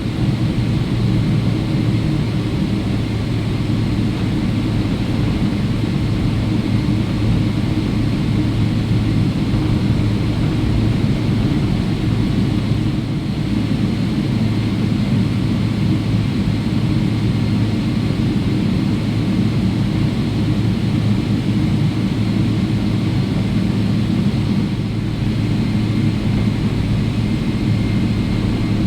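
Steady cabin rumble inside a Boeing 777-300ER taxiing after landing, its GE90 engines at idle, with a constant low hum and faint higher whine.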